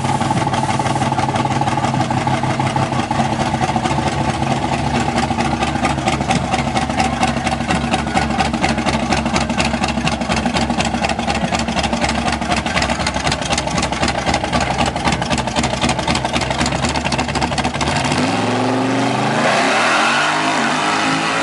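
Chevrolet Monte Carlo SS engine idling with a rapid, even pulsing beat, then revving with its pitch rising near the end as the car launches on a test hit.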